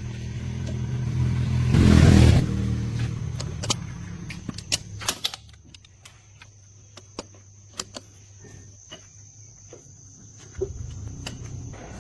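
A vehicle engine running and revving up, loudest about two seconds in, then dying away. Scattered sharp clicks and taps follow, and a low running sound comes back near the end.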